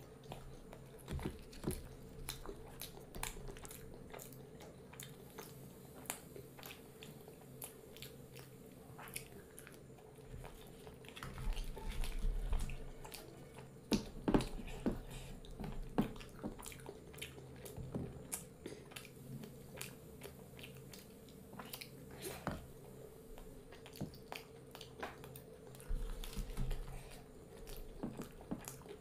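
Close-miked chewing and biting as a person eats puri dipped in matar paneer curry by hand, with many scattered short clicks of mouth and food over a faint steady hum.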